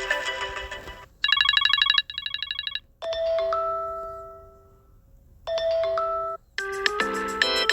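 Apple iPhone ringtones and alert tones played one after another: the end of one melody fades out, then a fast pulsing beep pattern, a two-note chime that rings out and fades, a second short chime, and a fuller electronic melody starting near the end.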